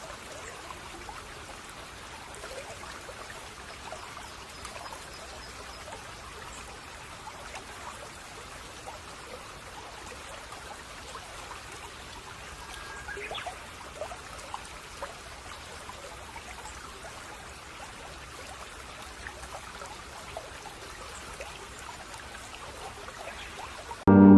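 Babbling brook: a steady trickle and splash of running water. Music cuts in suddenly at the very end.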